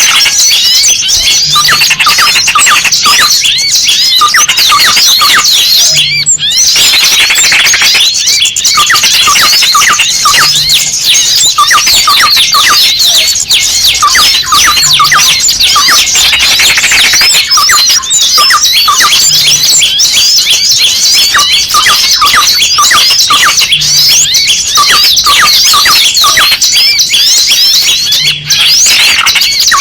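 A dense, loud chorus of small birds calling at once: rapid high chirps, squeaks and squeals overlapping without pause. It is a bird-lure (pikat) recording mixing the excited alarm and distress cries of small birds, such as a trapped small bird gives.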